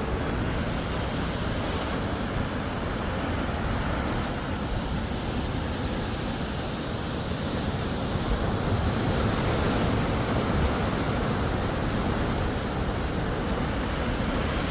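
Ocean surf and wind: a steady rushing noise with wind buffeting the microphone, swelling a little about eight seconds in.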